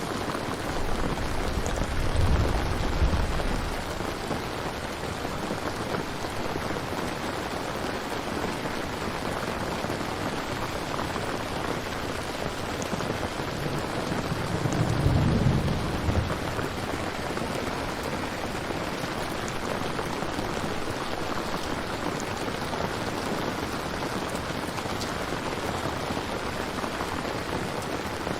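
Steady rain, with two low rumbles of thunder: one a couple of seconds in and a louder one about halfway through.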